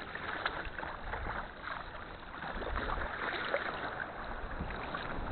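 Kayak being paddled on the sea: water splashing and dripping off the paddle blades and lapping at the hull. It is a steady hiss full of small splashes, swelling louder a few seconds in.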